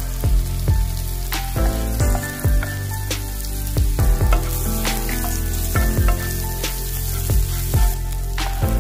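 Chopped onions sizzling as they fry in hot oil in a nonstick pan, stirred with a wooden spatula. Background music with a steady beat plays over it.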